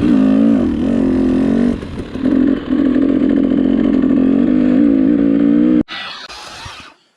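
Dirt bike engine running, its pitch rising and falling as the throttle is worked, with brief dips around two seconds in. It cuts off abruptly near the end, leaving a quieter rushing noise.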